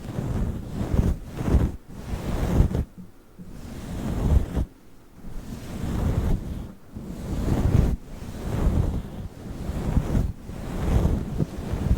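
A fluffy microphone windscreen being rubbed against the microphone: a deep, rustling whoosh that swells and fades in repeated strokes.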